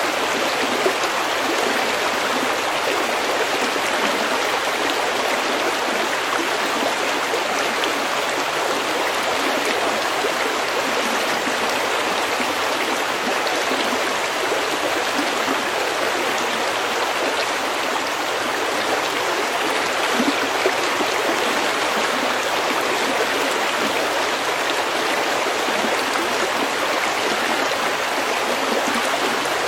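Meltwater stream flowing steadily over pebbles: an even, unbroken rush of running water.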